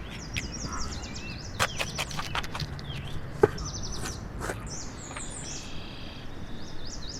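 Small birds chirping and trilling in quick high runs, over scattered sharp clicks and knocks, the loudest knock about three and a half seconds in.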